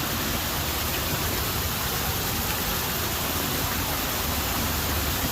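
Backyard landscape waterfall: water falling and splashing in a steady, unbroken rush.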